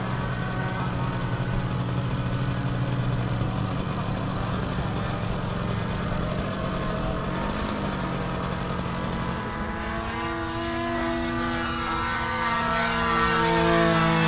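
Radio-controlled model airplanes flying overhead, their motors giving a steady droning tone. About two-thirds of the way in, a second plane's different pitch takes over, and it grows louder toward the end as one closes in for a pass.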